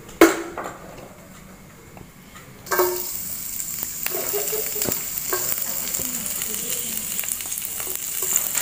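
A sharp knock just after the start, then about two and a half seconds in, sliced shallots and garlic tipped into hot oil in a wok start sizzling steadily, with scattered crackles.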